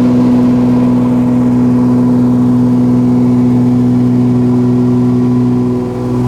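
The Cessna 340A's twin Continental TSIO-520 turbocharged piston engines and propellers running steadily, a low, even hum with a brief dip in loudness near the end.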